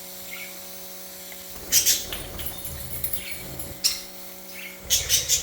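Rechargeable spray bottle spraying water mist in short hissing bursts, a cluster about two seconds in and another near the end. Budgies chirp faintly in between.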